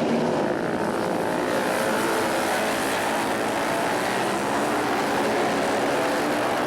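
Several flat-track racing motorcycle engines running at high revs as the pack laps the dirt oval, a steady layered engine sound with pitches rising and falling as riders go through the turns.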